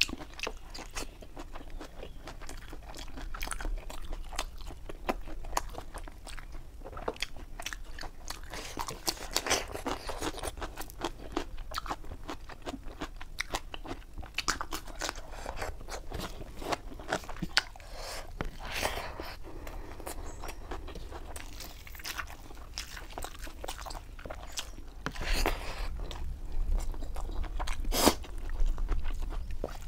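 Close-up eating sounds of a person chewing mouthfuls of rice, fried catfish and raw cucumber by hand. The chewing is wet, with frequent short, crisp crunches and mouth clicks, a few of them sharper and louder.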